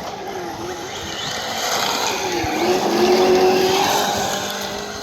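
Radio-controlled truck driving, its motor whine wavering in pitch, dipping about two and a half seconds in and then rising and holding. It grows louder to a peak about three seconds in, then eases off.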